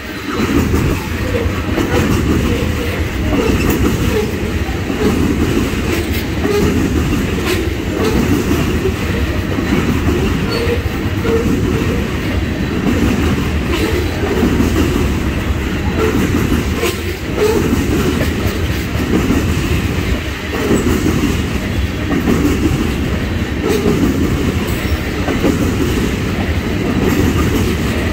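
Tank cars of a freight oil train rolling past close by: a loud, steady rumble of steel wheels on rail that swells and eases every couple of seconds, with scattered clicks.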